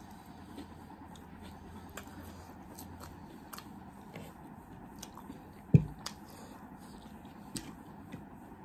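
Close-up eating sounds: chewing with scattered small mouth and food clicks. There is one sharp thump about six seconds in, the loudest sound, as of something knocked or set down on the table.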